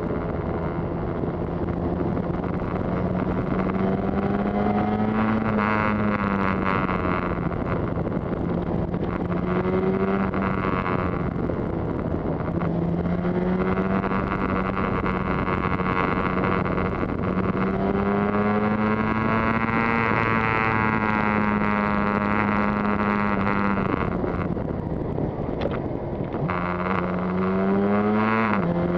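Yamaha TZR250's two-stroke twin engine running under way, its note rising and falling gently several times with small throttle changes, with wind noise on the microphone. Near the end the pitch climbs quickly and then drops off sharply.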